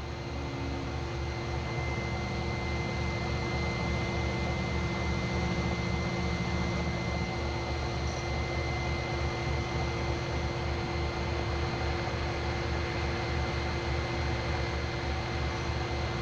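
A shop machine's electric motor running steadily, with a constant hum and hiss.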